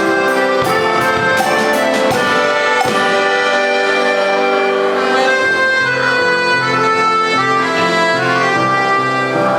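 A school band playing a slow pop ballad arrangement, with held brass and wind chords that shift every second or so. Light percussion ticks sound in the first few seconds.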